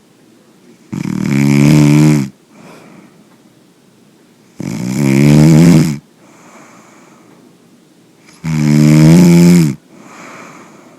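A sleeper snoring loudly, three long snores about three and a half seconds apart, with quieter breathing between them.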